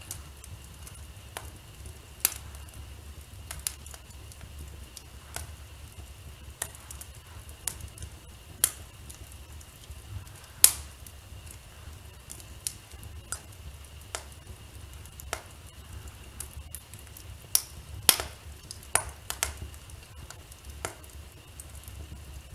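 Wood fire crackling in a fireplace: irregular sharp pops and snaps, the loudest about ten seconds in and another near eighteen seconds, over a low steady rumble.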